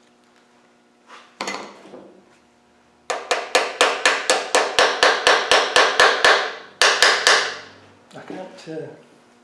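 A hammer tapping on metal: one knock, then a fast, even run of about five taps a second for three and a half seconds, then a few more. The taps come while the timing-chain tensioner is being fitted on a Land Rover Series 1 engine.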